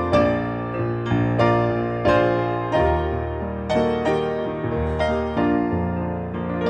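Piano playing a steady run of chords over held bass notes, a new chord struck every half second or so.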